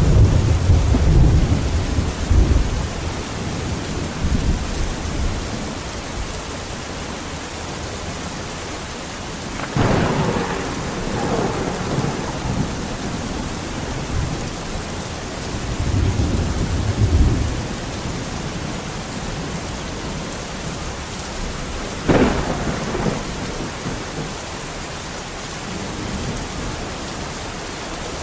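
Thunderstorm: steady heavy rain with rolls of thunder. A long low rumble at the start, a sharper clap about ten seconds in, another rumble around sixteen seconds, and a sudden crack about twenty-two seconds in.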